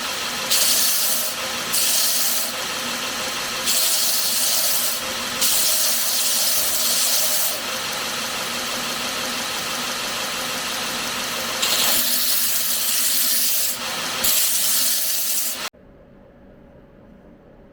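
Abrasive sanding on the knife in repeated strokes of a second or two, then a longer steady pass, over a faint steady machine hum. It cuts off suddenly near the end, leaving quiet room tone.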